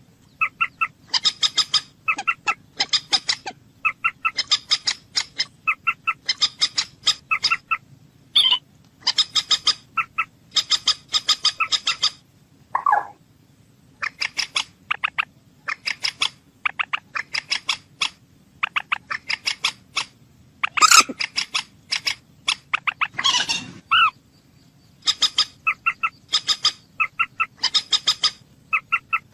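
Common moorhen calling: quick bursts of rapid, clicking, chattering notes repeated over and over, with a few lower, drawn-out calls now and then.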